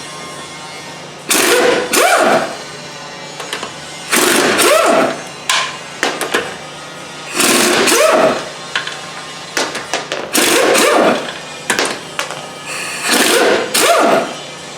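BMW F10 520d front suspension squeaking: five drawn-out squeaks about three seconds apart, each rising then falling in pitch, as the suspension is worked up and down. The squeak comes from a worn front lower arm (spring arm) ball joint.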